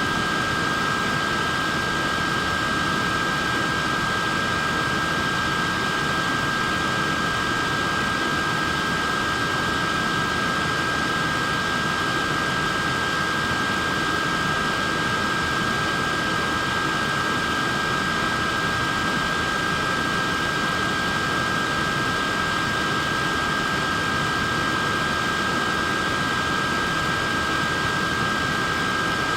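Portable neck fan running steadily: a constant rush of air with a steady high whine from its small motor and blades.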